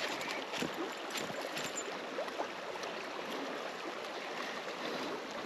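Flowing river water making a steady, even rush.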